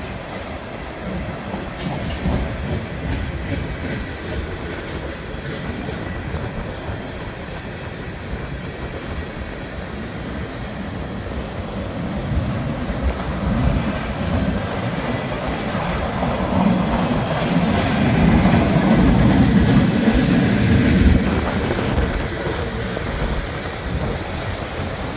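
A CN freight train's cars rolling past, their steel wheels rumbling steadily on the rails, growing louder about two-thirds of the way through.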